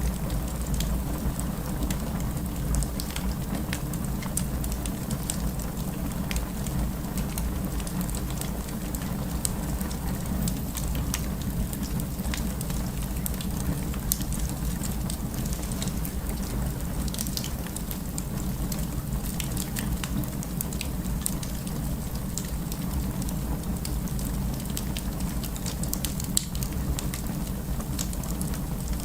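Fire crackling: many irregular small snaps and pops over a steady low rumble.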